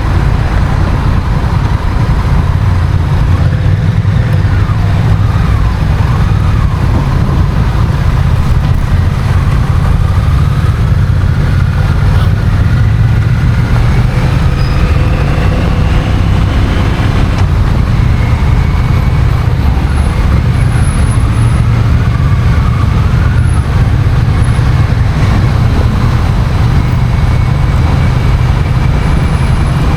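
Honda CMX1100 Rebel being ridden, its 1084 cc parallel-twin engine note rising and falling faintly under steady, heavy wind rush on the bike-mounted camera's microphone.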